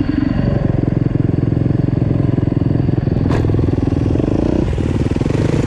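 Supermoto motorcycle engine running hard, a steady rapid pulsing note with a brief sharp click about three seconds in and a momentary dip in revs near the end.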